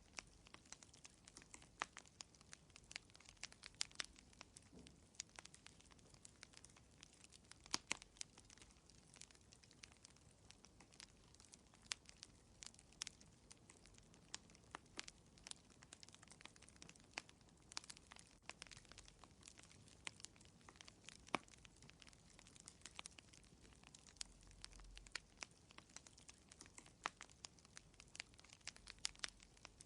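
Quiet fire in a fireplace crackling, with irregular sharp pops and snaps, a few a second, over a faint low hiss.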